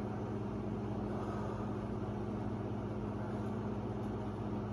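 A steady, even low hum of a machine or appliance, with no other sound.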